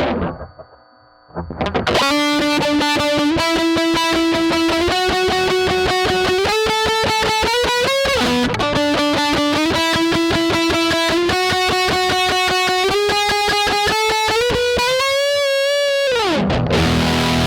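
Electric guitar played through a Pro Co RAT 2 distortion pedal: after a quiet moment, a rapidly picked single-note line steps up and down through several notes, ending on a held note with vibrato. A fuller distorted part starts just before the end.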